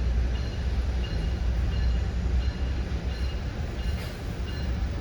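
Commuter train heard from inside a passenger coach: a steady low rumble, with faint short high-pitched tones repeating about twice a second.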